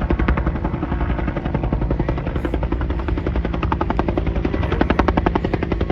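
Helicopter landing close by, its main rotor chopping in a rapid, even beat over a loud low engine drone.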